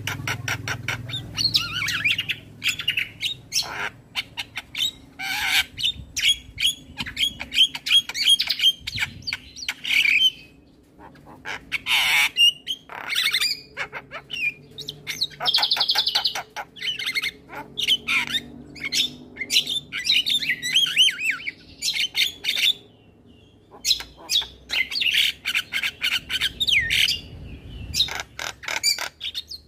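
Male Javan myna singing a long, varied song of harsh clicks, chatters, squawks and fast whistled trills, breaking off briefly twice, about 11 and 23 seconds in.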